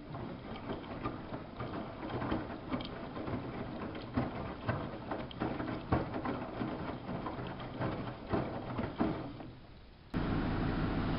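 Samsung WF71284 washing machine at work: laundry and water sloshing in the turning drum, with irregular clicks and knocks. About ten seconds in, this gives way abruptly to a steady, louder motor hum.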